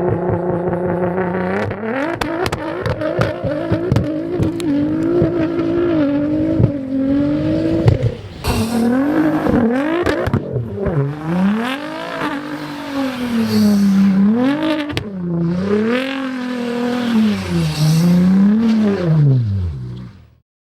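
Supercar engine revving hard. For the first few seconds it is held high and climbing slowly, with a rapid crackle of exhaust pops. After that it is blipped up and down four or five times. The sound cuts off abruptly near the end.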